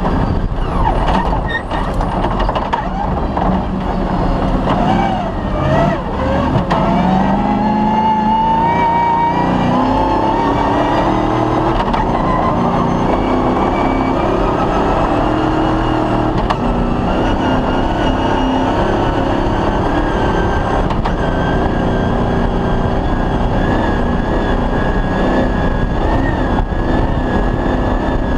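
Cross-country rally car engine running hard under load. Its pitch wavers early, climbs steadily for several seconds about a quarter of the way in, then holds at a high, even pitch.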